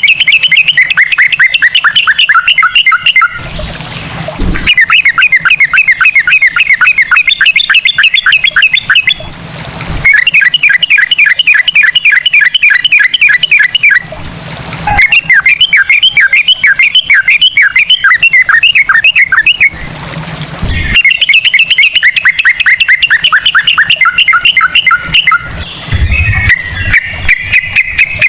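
Yellow-vented bulbul (trucukan) singing its fast 'ropel' song in a cucak rowo-like phrasing. The song comes in runs of rapid, evenly repeated whistled notes, each a few seconds long with short breaks, about five runs in all. Near the end a steadier stream of notes takes over.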